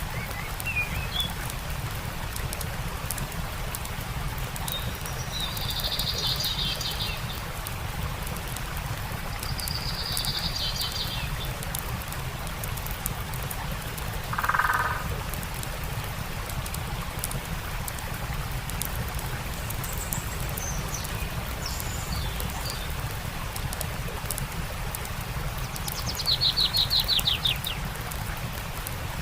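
Steady rush of a stream with a campfire crackling in small sharp pops, and birds calling over it: a few short trills, a lower call near the middle, and a louder fast trill near the end.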